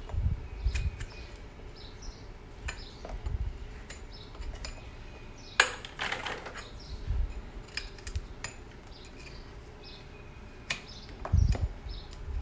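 Scattered light metallic clinks and taps, with one louder rushing noise about halfway through, while a bird chirps repeatedly.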